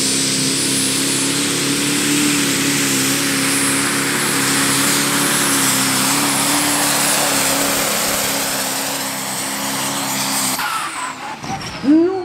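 Pro Stock pulling tractor's turbo-diesel engine running flat out under load during a pull, with a high, steady whine over the engine. The engine sound cuts away about ten and a half seconds in.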